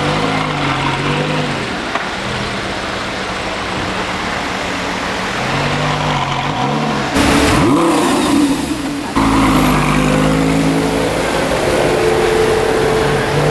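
Lamborghini Gallardo LP570-4's V10 engine running, with throttle blips that send the revs up and back down about a second in and again around six seconds. About seven seconds in comes a louder, sharper rev, then the engine runs steadily as the car pulls away.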